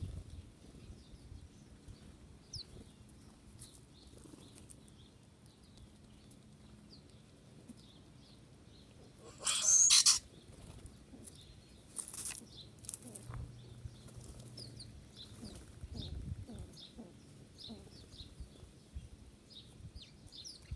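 Small songbirds giving short high chirps over and over, with a brief loud flutter of wings about halfway through and a smaller one a couple of seconds later.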